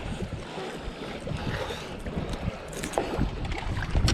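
Wind buffeting the microphone in a fishing boat, with a few short knocks and clicks.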